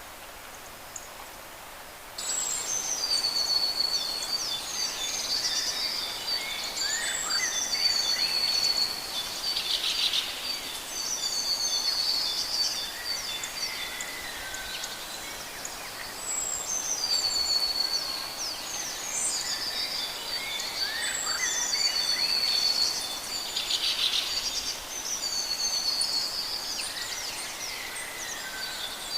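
Birds singing, with high chirping song phrases repeating again and again and overlapping. The song starts suddenly about two seconds in.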